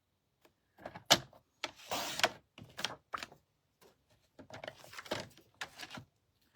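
Cardstock being cut to size on a paper trimmer: a run of sharp clicks and short sliding scrapes, the loudest click about a second in.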